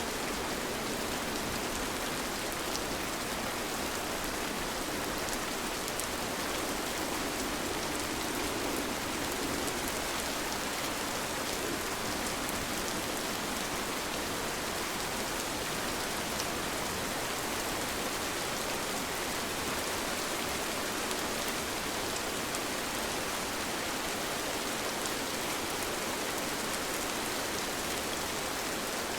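Steady rain falling: an even hiss with scattered individual drop ticks, unchanging throughout.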